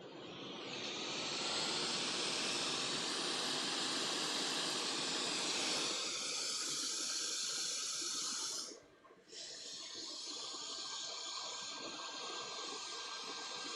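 Hot air rework station blowing a steady hiss of air over the PlayStation 5 board, as used to heat off a damaged HDMI port; it builds up over the first second, cuts out briefly about nine seconds in, then resumes a little quieter.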